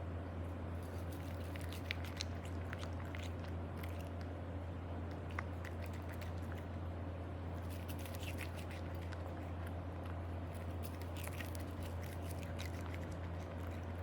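A cat chewing: scattered small crunchy clicks in a few clusters over a steady low hum.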